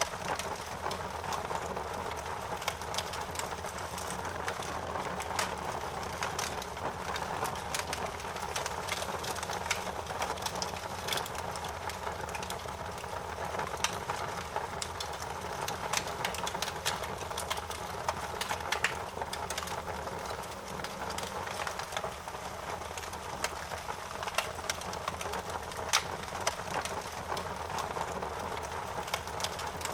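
Wood fire crackling: irregular sharp pops and snaps, several a second, over a steady rushing hiss.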